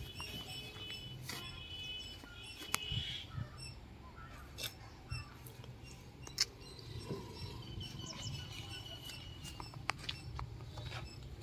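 Birds chirping in thin high notes, strongest in the first few seconds and again near the end, with a few sharp clicks in between.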